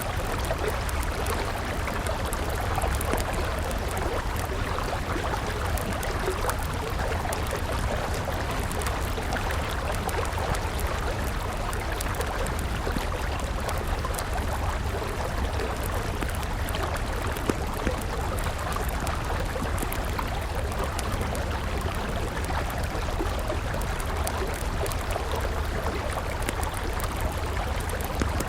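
River water rushing steadily, with the small crackles and pops of a burning wood fire scattered over it.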